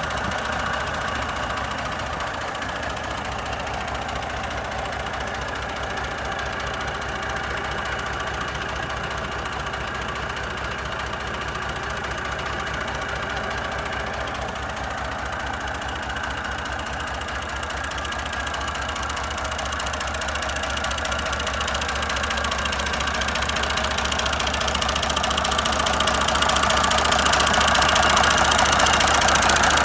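Massey Ferguson 150 tractor engine running steadily, growing louder over the last ten seconds or so.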